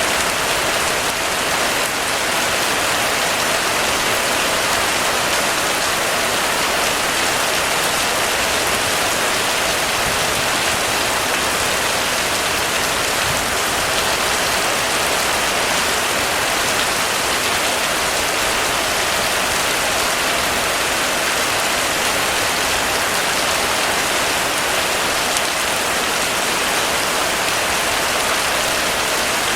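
Heavy rain falling steadily, a dense, even patter with no breaks or thunder.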